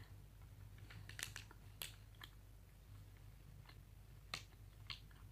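Faint, scattered crunches and mouth clicks of a person chewing nachos (tortilla chips with ground meat), about six soft clicks with near silence between them.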